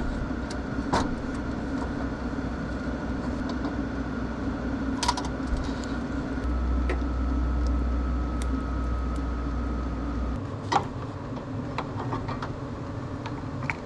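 A steady low machine hum runs throughout, with a faint steady whine that drops slightly in pitch about halfway through and a low rumble that gets louder then falls away near the end. Scattered light clicks and clinks sound over it.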